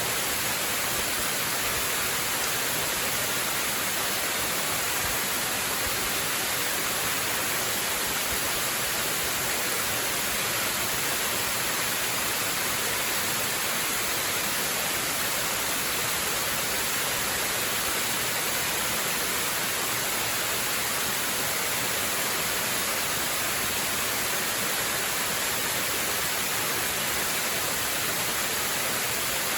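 Waterfall rushing: a steady, unbroken hiss of falling water that does not change.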